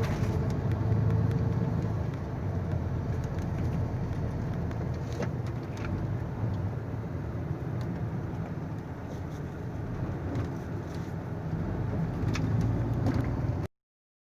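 Truck engine running with road noise, a steady low drone with a few faint clicks over it; the sound cuts off suddenly near the end.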